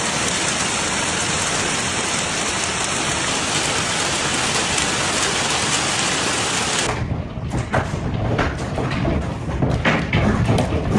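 Heavy rain pouring down in a steady, dense hiss. About seven seconds in the sound cuts to another storm recording, rougher and uneven, with a low rumble and many separate sharp ticks of drops striking.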